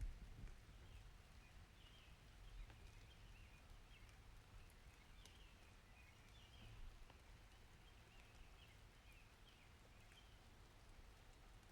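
Faint rain ambience: a soft steady hiss over a low rumble, with scattered faint high squeaks or chirps.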